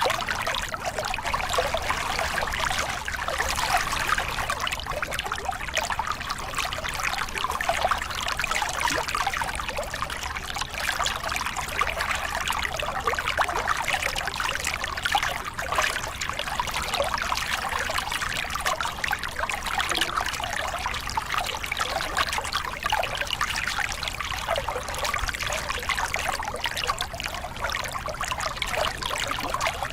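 Small river cascade: water spilling and splashing over rocks in a steady, continuous rush.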